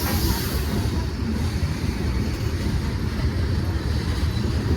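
Freight train rolling past: a steady rumble of wheels and cars on the rails, with a brief high hiss about when it starts.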